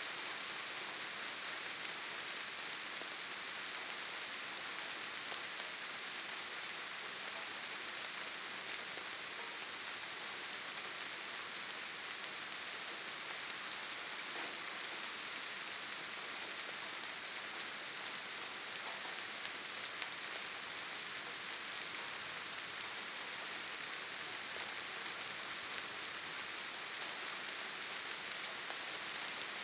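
Steady rain falling, a continuous even hiss of many drops with no letup.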